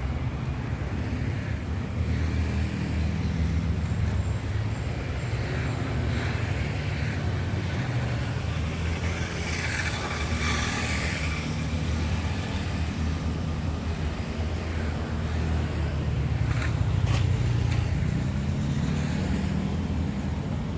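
Steady low engine rumble with a shifting drone, and a brief swell of higher hissing noise about ten seconds in.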